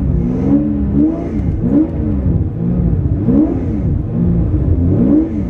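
Twin-turbo V12 engine in a widebody Toyota Supra revved up and back down over and over, about once a second, in short rising-and-falling surges, then settling to idle near the end.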